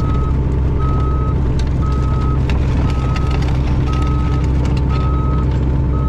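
Mini excavator's diesel engine running hard while pushing a pile, its travel alarm beeping steadily about once a second, with a few light knocks.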